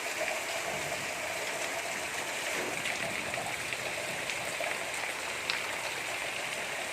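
Gentle rain falling steadily: an even hiss with scattered drop ticks, one a little louder about five and a half seconds in.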